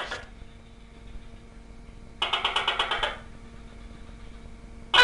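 Tokay gecko calling: a rapid clicking rattle tails off at the start, another rattle of about a second comes about two seconds in, and a loud, sudden call note begins right at the end. A faint steady hum runs underneath.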